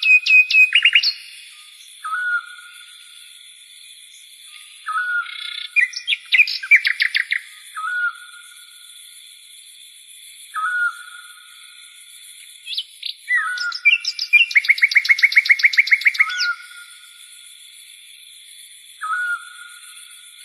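Birds singing: a short whistled note repeated every few seconds, and several bursts of rapid trilled notes, the longest trill about 14 to 16 seconds in.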